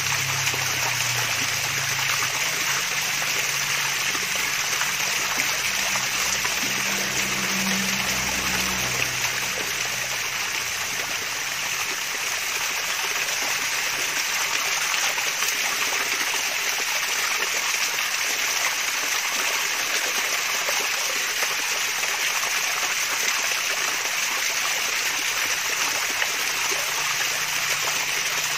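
Water from a small waterfall running and splashing steadily, a continuous babbling trickle.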